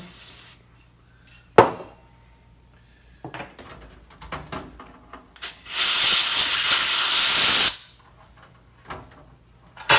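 A loud pressurised spray hissing for about two seconds in the second half, cleaning oil off the chainsaw's stud hole. A sharp knock comes about one and a half seconds in, with light tool clicks between.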